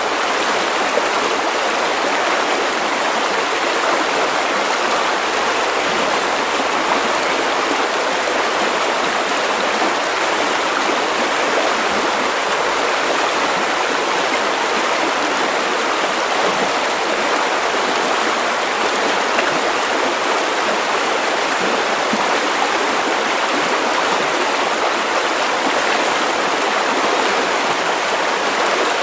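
River water running over stones: a steady, unbroken rush of flowing water.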